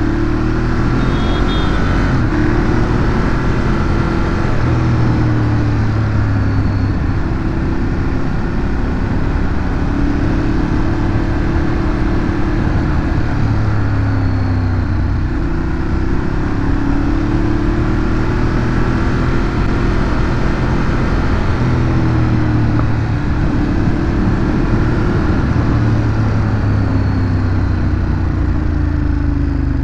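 Ducati Monster 821's 821 cc L-twin engine through its stock exhaust, ridden on the road. The engine pitch rises and falls again and again as the bike pulls through the gears and eases off, with a steady rush of noise underneath.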